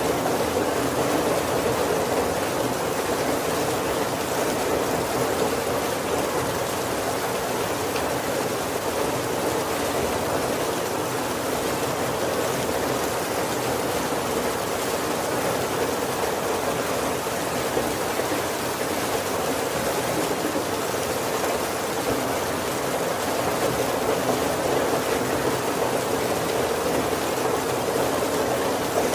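Heavy rain falling steadily on a roof: a dense, even hiss with no breaks, no single drops standing out, and no thunder.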